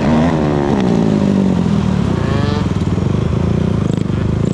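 Dirt bike engine being revved. The revs fall away over the first second, then climb sharply in a quick blip about two seconds in, over a steady running engine.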